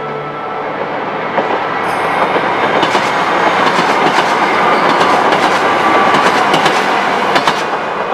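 Kyoto Tango Railway diesel train passing close by, a steady rail rumble that grows louder through the passage, with sharp clicks of the wheels over rail joints.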